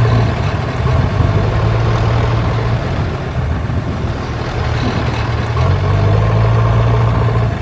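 An engine-like motor running steadily with a low hum. The hum weakens for a few seconds in the middle and then comes back strong.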